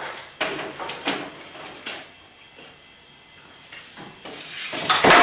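A few short knocks of hard parts being handled, then a scraping rush that builds to a loud clank at the very end.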